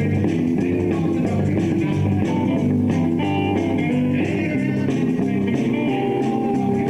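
Live blues-rock band playing: electric guitars over bass guitar and drums, steady and loud.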